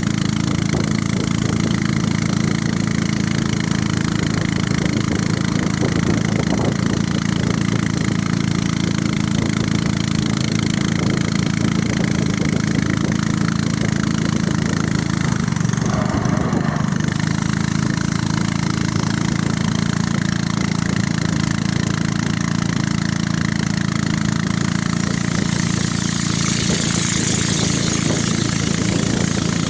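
Small boat's motor running steadily, a continuous low drone.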